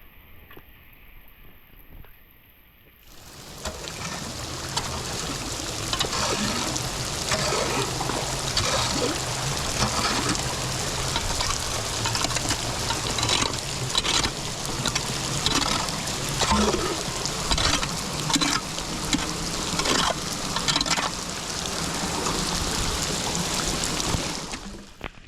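Water rushing and splashing, starting about three seconds in and running steadily with irregular splashes, then cutting off just before the end.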